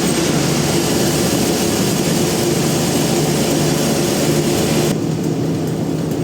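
Band sawmill machinery running steadily, a loud even noise over a low hum. About five seconds in it turns quieter and thinner.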